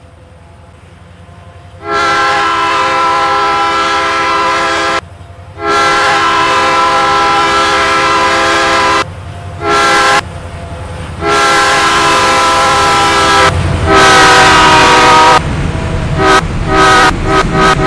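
Locomotive air horn sounding several notes at once in two long blasts, a short one and a final long one, then a string of quick short toots near the end; long, long, short, long is the standard grade-crossing signal. A low rumble runs underneath.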